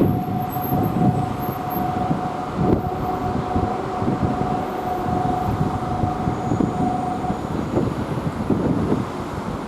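Nankai electric train running past on the rails with an uneven rumble, carrying a steady whine that stops about seven and a half seconds in.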